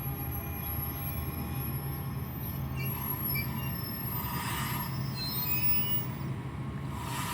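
NJ Transit train running on the rails with a steady low hum and thin, high wheel squeal. Two brief rushes of noise come about four and a half seconds in and near the end.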